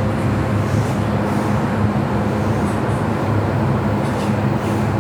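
MTR M-Train running steadily: an even wheel-and-track noise with a steady low hum.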